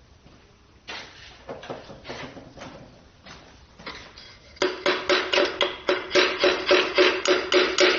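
Hammer striking metal in rapid, even blows, about three to four a second, each ringing briefly, starting a little over halfway through. Before the blows come a few lighter knocks and clanks of metal on metal.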